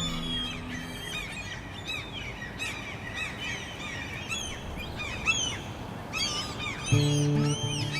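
Birds calling, with many short overlapping chirps over a steady outdoor hiss. Near the end, acoustic guitar music comes in.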